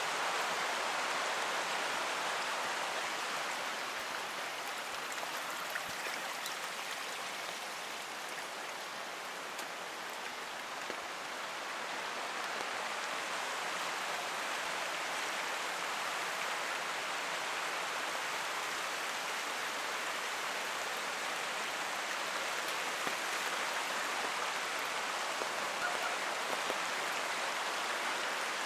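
Steady rush of a forest creek mixed with falling rain, easing slightly for a few seconds early on and building back, with a few faint ticks of drops on top.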